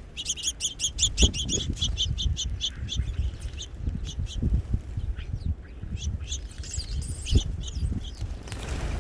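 Small birds at a feeder chirping in a fast series of high notes, about eight a second, slowing and fading out over the first few seconds, with scattered fainter calls later. Low thumps and rumble run underneath.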